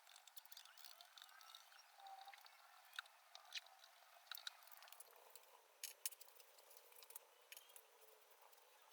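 Near silence: a soft hiss with scattered faint ticks and clicks.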